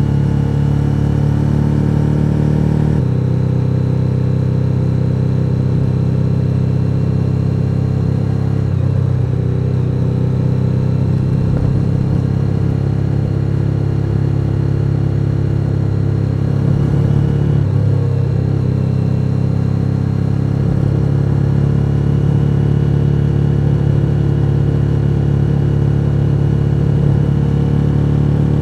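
Suzuki SV1000N's 90-degree V-twin engine running on the move at a steady pace. The note shifts slightly about three seconds in and wavers again around nine and eighteen seconds.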